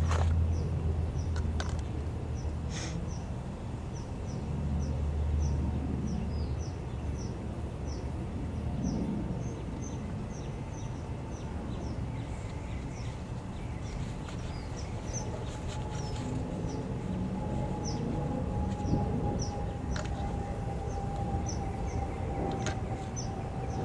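A small bird chirping over and over, short high falling chirps about twice a second, over a low rumble and a few sharp knocks. A faint steady tone sets in about halfway.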